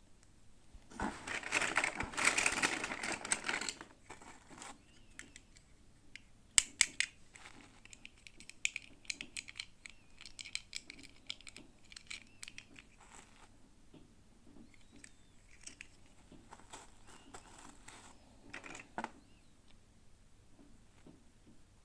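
Plastic packaging being handled and opened: a loud crinkling tear for a few seconds near the start, then sharp clicks and lighter crinkling and rustling with scattered small clicks.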